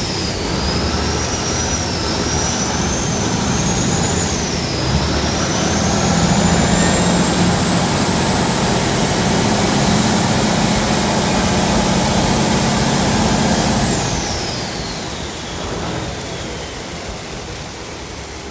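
Khlong Saen Saep passenger boat's diesel engine running at speed, with a high whine that dips and climbs with engine speed. About fourteen seconds in, the whine glides down and the engine eases off.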